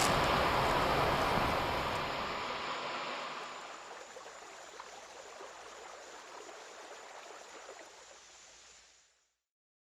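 Steady rushing outdoor noise that fades out over several seconds and then stops, leaving silence.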